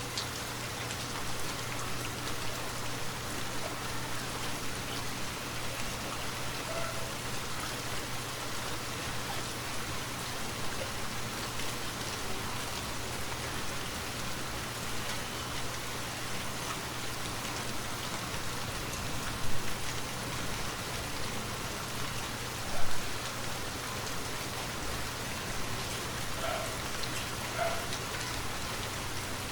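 Steady rainfall in a forest, a continuous even hiss of drops, with two brief louder moments about two-thirds of the way through.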